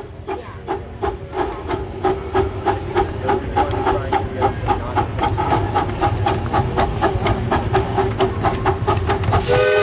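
Miniature live-steam locomotive of a 15-inch-gauge park railway chuffing steadily, about four exhaust beats a second. Its whistle starts sounding just before the end.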